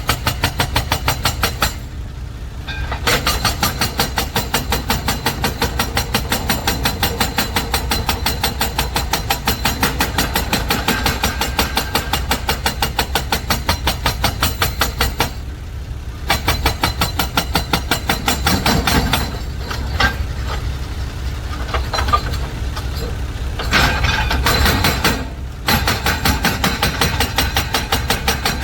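Dump truck's diesel engine running with a fast, even clatter, easing off briefly three times.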